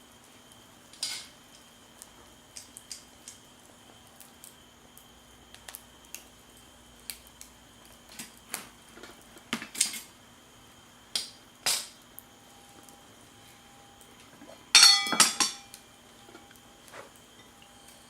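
Cookware and utensils clinking and clattering in small, scattered knocks, with a louder run of ringing metal or glass clinks near the end.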